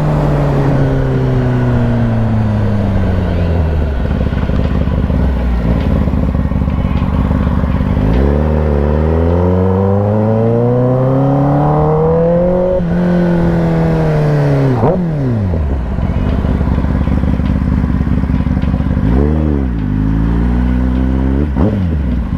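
Kawasaki ZX-10R's inline-four engine under way: revs falling off, then climbing from about eight seconds in and dropping back about five seconds later, then holding low with two quick throttle blips near the end.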